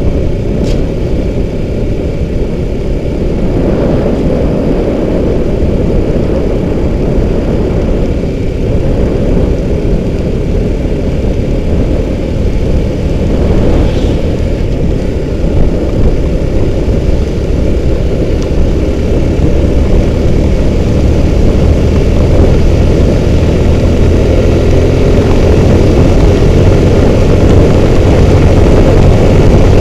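Motorcycle riding at highway speed: a loud, steady rush of wind and road rumble on the microphone, with the engine faintly underneath, growing a little louder toward the end.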